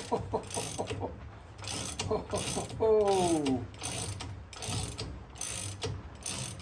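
Ratchet wrench clicking in steady strokes, about one every two-thirds of a second, as it turns the bolt of a brake drum puller on a rusted-on drum. About three seconds in, a short falling tone rises over the clicking.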